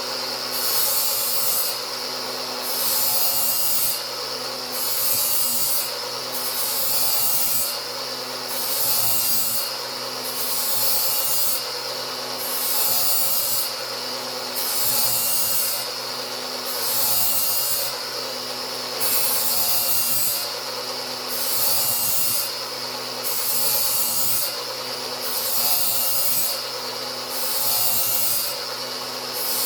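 Angle grinder running steadily while its disc is drawn across the edge of a steel mower blade, grinding a new edge. The grinding hiss rises and falls in repeated passes, about one every two seconds.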